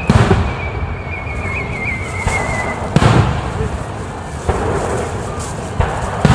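Aerial fireworks shells bursting: about five booms, each with an echoing rumble, spaced a second or more apart. A thin wavering whistle sounds through the first three seconds.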